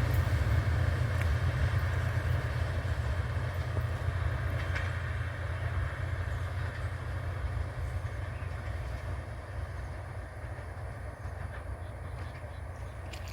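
KiHa 183 diesel railcar running with a steady low rumble that fades gradually.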